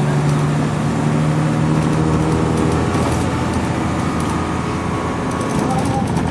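Bus engine running steadily under road noise, heard from inside the bus, with small rattles; the engine note eases off about halfway through.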